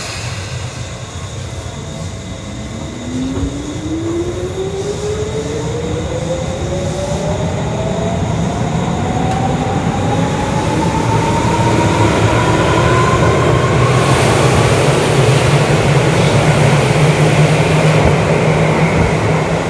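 Electric commuter train on the Tokyu Toyoko Line pulling away and accelerating. Its traction-motor whine rises steadily in pitch for about twelve seconds, then fades into the general running noise. The rumble of the wheels on the rails grows louder as it gains speed.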